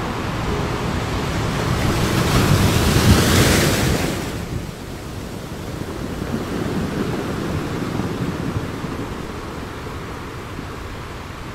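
Sea waves breaking and washing up a sandy beach. One wave swells and crashes about two to four seconds in, then the surf settles to a steadier wash.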